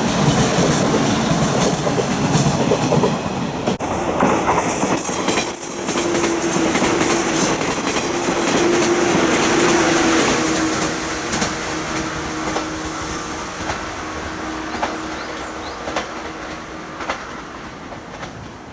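JR 115 series electric train running along the rails with a steady wheel squeal, a few rail-joint clicks near the end, fading as it moves away.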